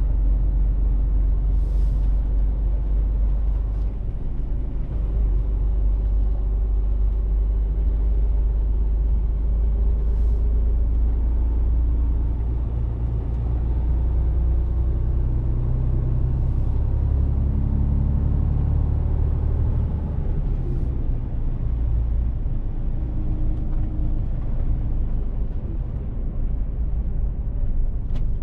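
Mercedes-Benz Actros truck's diesel engine running on the move, a deep steady rumble; midway the engine note climbs and falls again as the truck pulls away and accelerates.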